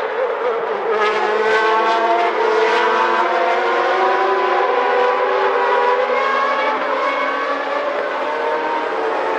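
1991-era Formula One car engines running at high revs, with a steady, dense engine note whose pitch drifts slowly and eases down over the middle seconds.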